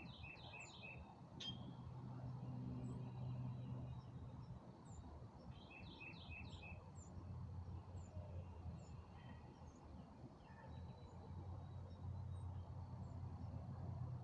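Birds singing in the open: a short phrase of four quick notes at the start, repeated about six seconds later, with scattered faint high chirps. A low, steady rumble runs underneath.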